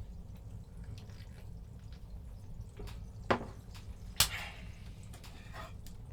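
A few scattered small clicks and knocks over a low steady hum, with two sharper, louder clicks about three and four seconds in.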